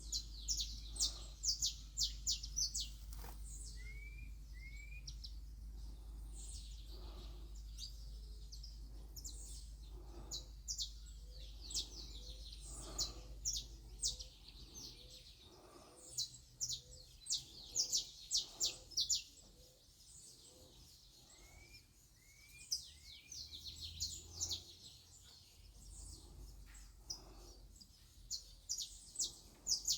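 Birds chirping: clusters of short, high chirps repeated every second or so, with a few lower hooked notes between them. A steady low rumble runs under the first half and fades out about halfway through.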